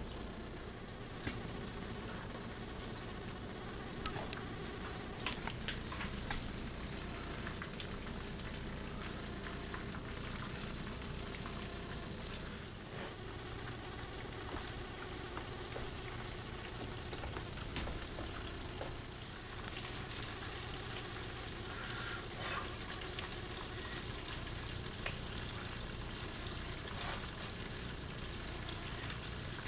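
Chicken frying in oil in a pan under a splatter screen: a steady sizzle with scattered pops and crackles.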